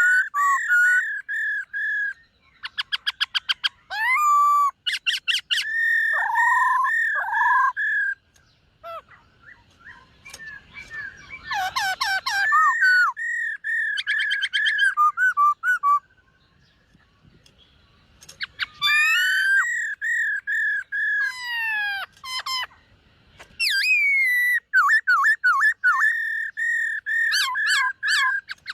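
Black-throated laughingthrush singing: phrases of rich, repeated whistled notes and fast trills, with a pause of a couple of seconds about halfway through.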